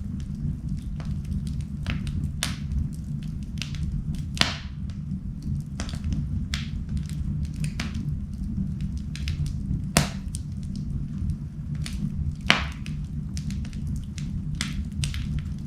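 Wood fire in a fireplace crackling and popping irregularly over a steady low rumble, with three louder pops about four, ten and twelve and a half seconds in.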